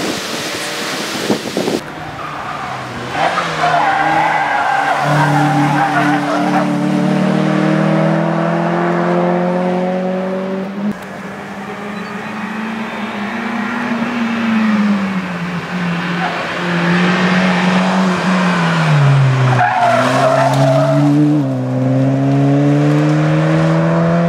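A small hatchback's engine revving hard through a cone slalom, its pitch climbing and dropping again and again as the driver works the gears and throttle. Tyres squeal a few seconds in and again near the end, through the tight turns.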